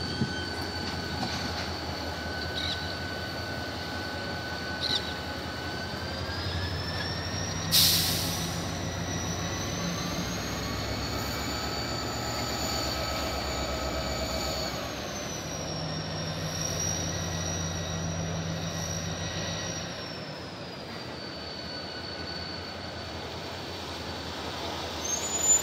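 CSX train's steel wheels squealing on the rails, a steady high whine that glides up in pitch about seven seconds in and drops again near the end, over the low rumble of the diesel locomotive. A sharp clank about eight seconds in.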